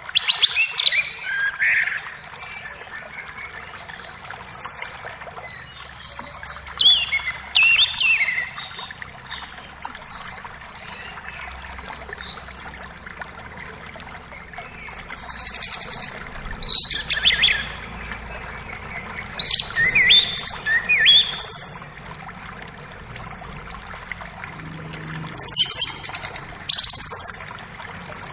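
Forest birds singing over the steady rush of a creek: one bird repeats a short high note about every two seconds, while others break in with bursts of chirping song, the loudest in the second half.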